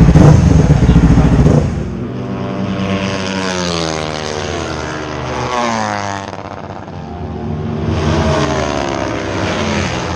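Motorcycle engine. A loud low rumble stops after about a second and a half, then a quieter engine note rises and falls in pitch over several seconds, as the revs climb and drop.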